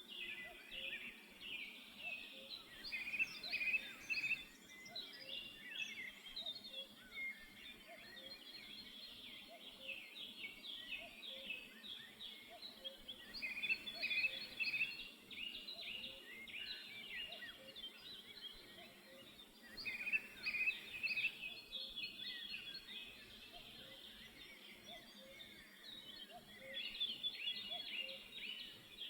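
Black-headed woodpeckers calling: bouts of rapid, repeated high yelping notes, each falling in pitch, coming in bursts a few seconds long with quieter calling in between.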